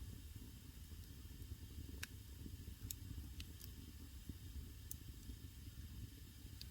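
Wood fire burning in an agungi firebox: a faint, steady low rush of flames with about six sharp crackling pops of burning wood, the loudest about two seconds in.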